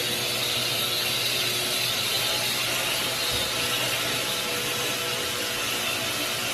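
A motor-driven cleaning machine running steadily, a continuous rushing hiss over a faint motor hum.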